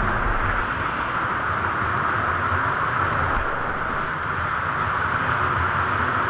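Steady rush of falling and flowing water from a waterfall and its stream.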